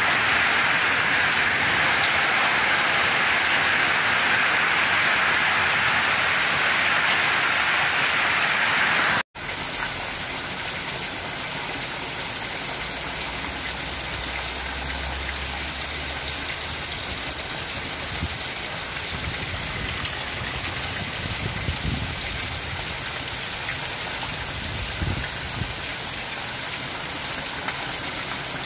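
Heavy rain falling on a zinc roof and the ground around it. About nine seconds in, a sudden cut leads to a steadier, slightly quieter downpour, with water streaming off the roof edge.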